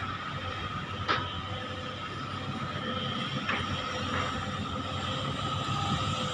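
Sunward excavator at work: its diesel engine and hydraulics run steadily with a constant whine, broken by a sharp metallic knock about a second in and a lighter one about three and a half seconds in.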